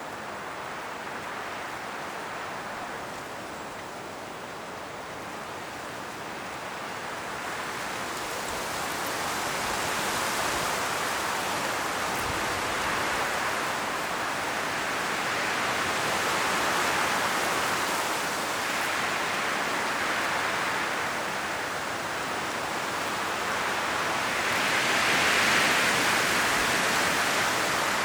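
Strong wind blowing through forest trees, rustling the leaves in a steady rush that swells in gusts, loudest near the end.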